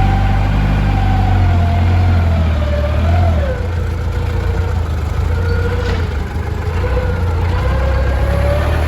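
A vehicle engine running steadily with a loud low hum and a whine above it that wavers and drifts down in pitch.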